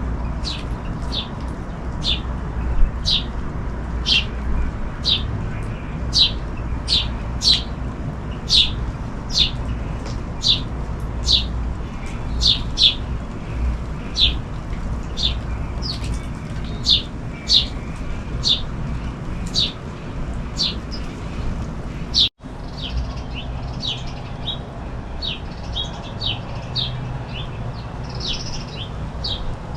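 A small bird chirping over and over in short, sharp chirps, about one or two a second, over a steady low rumble of rain noise.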